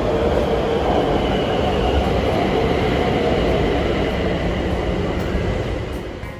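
BTS Skytrain electric train running: a steady rolling rumble with a faint high whine, fading in the last second.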